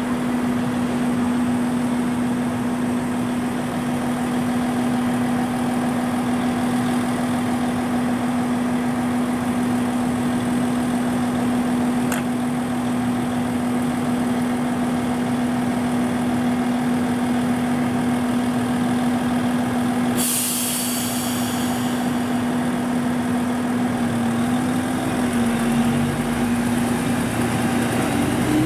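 KiHa 25 diesel railcar's engine idling steadily. About two-thirds of the way in, compressed air hisses sharply for a couple of seconds as the brakes release. Near the end the engine note shifts and rises as the railcar starts to pull away.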